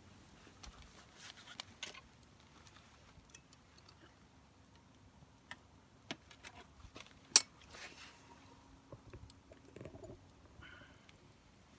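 Wood campfire crackling: scattered small snaps and ticks, with one loud sharp pop about seven seconds in.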